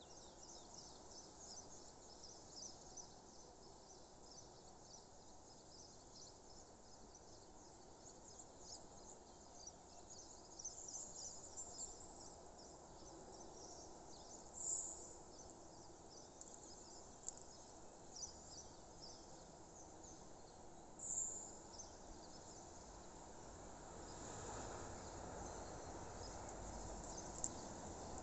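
Faint natural ambience: insects chirping steadily in a dense high chorus, with two short, louder high chirps about halfway through, likely birds. A low background noise swells slightly near the end.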